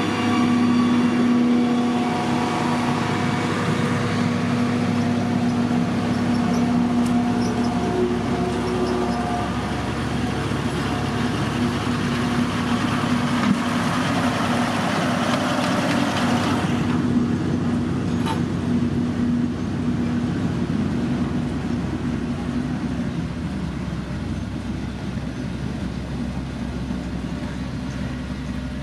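Diesel engine of heavy road-construction machinery running steadily under load, with a constant engine tone and the rumble and hiss of the work. About two-thirds of the way through, the higher hiss drops away suddenly and the engine runs on.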